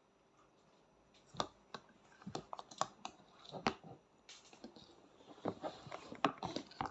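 Irregular light clicks and knocks of a spoon and tableware, as from eating off a plate, starting about a second in with a brief scrape midway.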